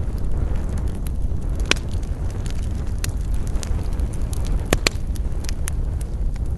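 Wood fire burning with a steady low rumble and irregular sharp crackles and pops, the loudest about two seconds in and again near five seconds.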